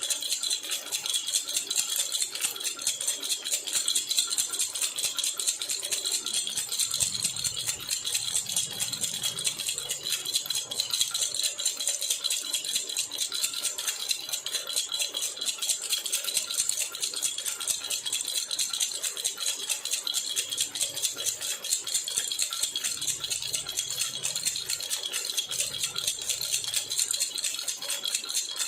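Baby rattle (jhunjhuna) shaken continuously, a fast, even, bright rattling that keeps a steady level throughout.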